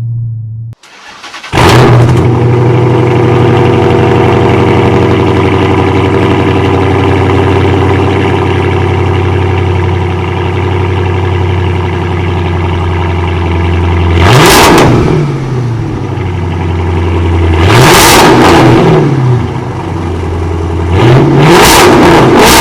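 Straight-piped Chrysler 300S Hemi V8 firing up about a second and a half in and settling into a loud, steady idle, then revved three times near the end, each rev rising and falling.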